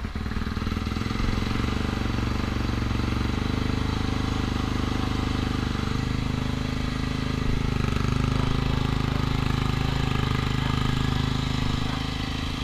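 2015 Yamaha YZ250FX's 250 cc single-cylinder four-stroke engine idling steadily.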